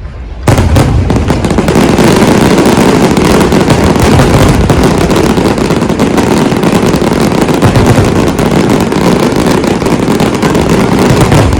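Dense fireworks barrage: many bursts and crackles running together into one loud, continuous noise that starts suddenly about half a second in.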